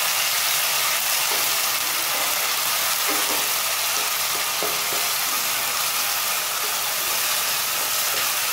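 Sliced onions and a freshly added ginger-garlic spice paste sizzling in hot mustard oil in a kadhai as a spatula stirs them: a steady frying hiss.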